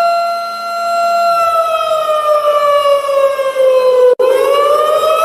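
Warning siren wailing: one held tone that slowly falls in pitch for about three seconds, breaks off for an instant, then rises again near the end.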